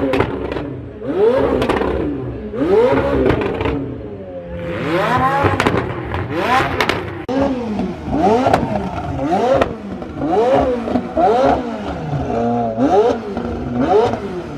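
McLaren supercar engine revved in quick blips, about one a second, each rev climbing and dropping back, with exhaust crackles and pops between them as it spits flames.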